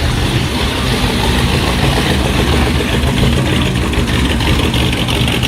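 Car engine idling steadily, with its sound sitting low and even.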